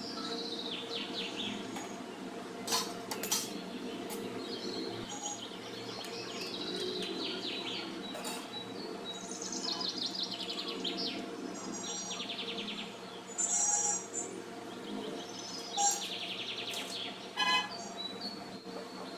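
Birds chirping and trilling in repeated short falling phrases over a steady background hum, with a few sharp short knocks or clinks in the second half.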